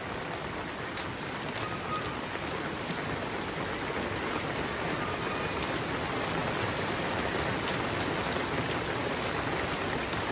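Heavy rain falling steadily, with scattered sharper ticks of drops striking close by.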